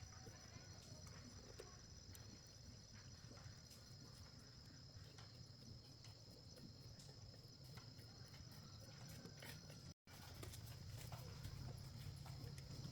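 Faint, steady high-pitched chirring of crickets over a low background hum, with a few soft clicks. The sound drops out for a moment about ten seconds in.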